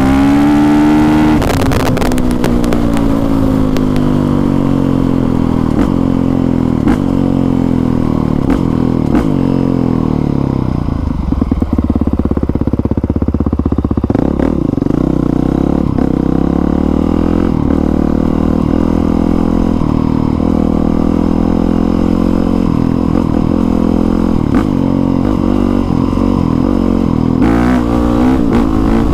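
Honda CRF450R's 450cc single-cylinder four-stroke engine, fitted with an aftermarket exhaust, being ridden: the engine note repeatedly climbs and drops as the throttle is worked, settling lower for a few seconds about a third of the way through.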